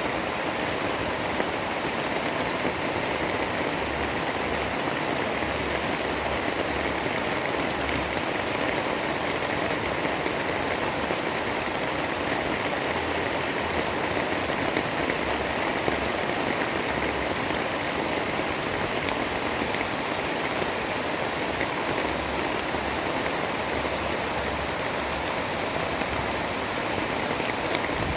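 Heavy rain falling, a steady, even wash of noise with no thunder or other events.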